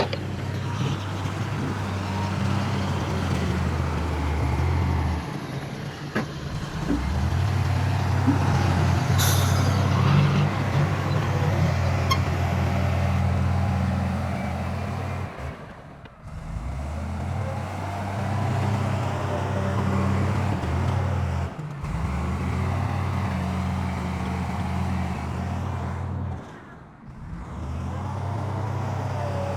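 Heavy diesel engines of earthmoving machinery, bulldozer and dump truck, running steadily under load. The sound drops out briefly a few times, most deeply about sixteen and twenty-seven seconds in.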